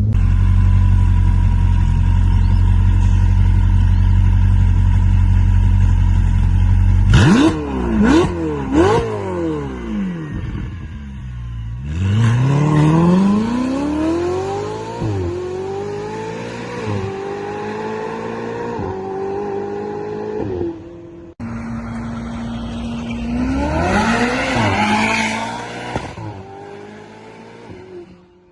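Ferrari 488 GTB's twin-turbo V8 through an aftermarket FI exhaust. It runs on a steady low note, gives three quick throttle blips about seven seconds in, then pulls hard with revs climbing and dropping through several quick upshifts. Near the end the revs rise once more.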